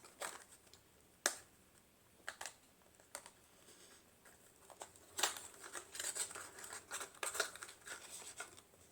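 Hands handling a skincare product's packaging, with scattered small clicks and crinkling that grow busier about halfway through.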